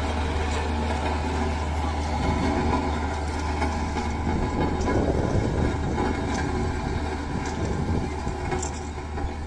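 Diesel engine of heavy earthmoving machinery, a backhoe loader or tractor, running steadily with a low hum, a little louder in the middle.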